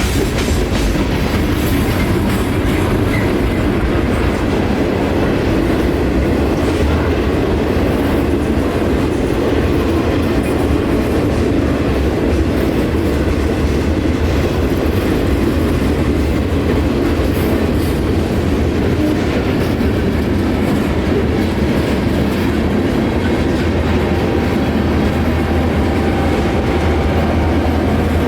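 Freight train of boxcars passing close by, cars and wheels rolling past loudly and steadily on the rails.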